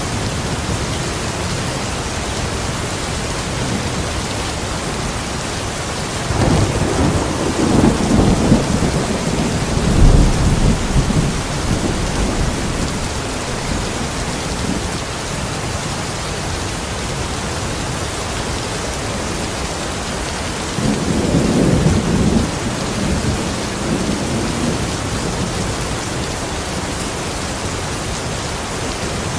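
Steady heavy rain with two rolls of thunder: a long low rumble from about six seconds in that peaks around ten seconds, and a shorter one a little past twenty seconds.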